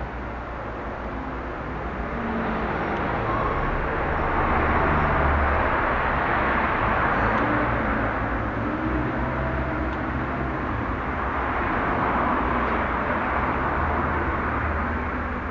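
CNC engraving machine running, a steady noisy cutting sound with low shifting motor tones that swells louder and eases off twice.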